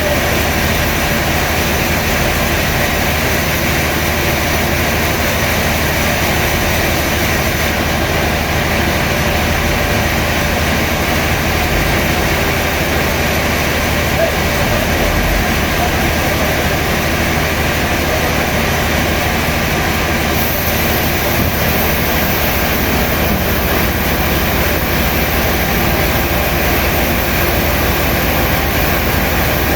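Sawmill machinery running steadily: a loud, even mechanical noise with a low hum that holds unchanged throughout.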